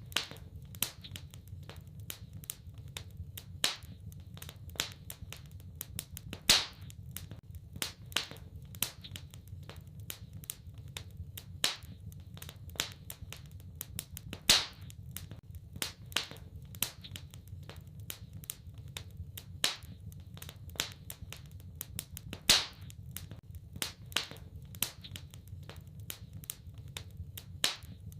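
Wood fire in a fireplace crackling: irregular sharp pops and snaps, a few much louder ones several seconds apart, over a low steady rumble.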